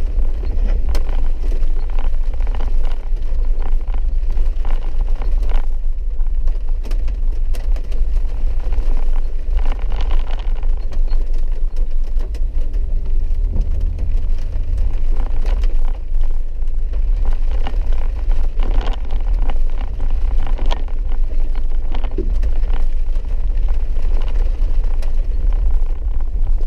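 Vehicle cabin noise while driving a wet dirt road: a steady low rumble from engine and tyres, with frequent scattered knocks and clicks.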